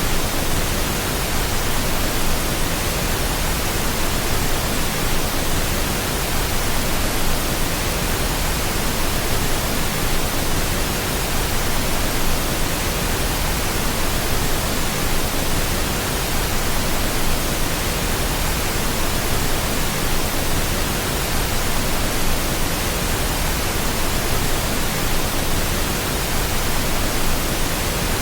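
Steady pink noise: an even, unchanging rushing hiss, continuous and without any events.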